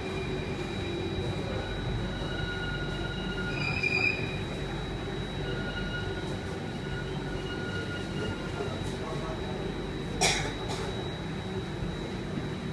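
Inside an Alstom Metropolis C830 metro car: a steady low hum with a thin high-pitched whine from the train's equipment, likely while it stands at a station. A short tone sounds about four seconds in, and one sharp knock comes about ten seconds in.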